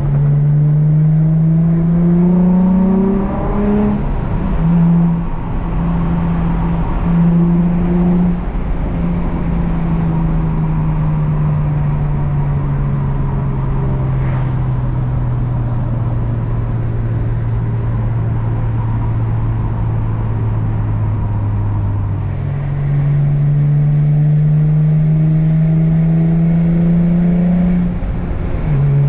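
Infiniti G35 coupe's VQ 3.5-litre V6 through a Z1 M Spec dual exhaust, heard on a manual-gearbox drive: it revs up with gear changes in the first few seconds, then falls slowly in pitch for a long stretch while easing off, and pulls up again near the end before another shift.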